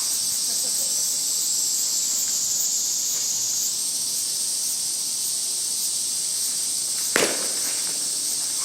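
Insects buzzing steadily in a loud, high-pitched chorus, with a single sharp crack of a softball bat hitting the ball about seven seconds in.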